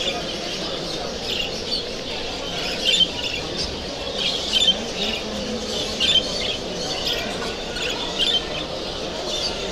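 Caged show budgerigars chattering, with short, sharp squawking calls every second or so over a steady murmur of background voices.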